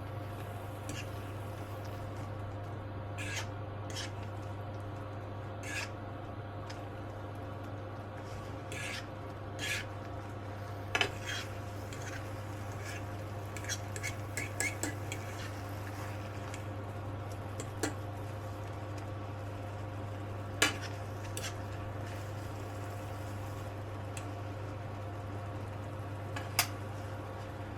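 Scattered clinks and taps of utensils against dishes, a handful of them sharper and louder, over a steady low hum.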